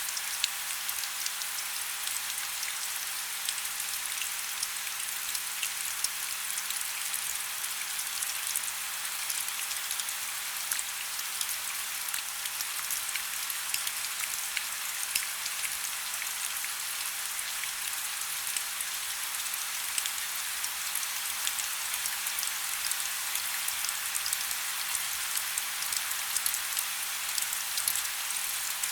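Steady rain falling, a constant hiss with many small drop patters.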